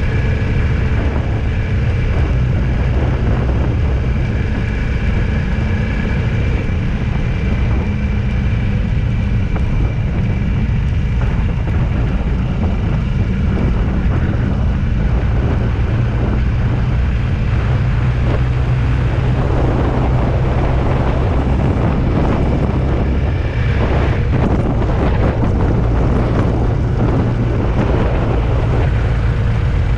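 Steady engine and road noise of a vehicle being driven, a constant low rumble without letup.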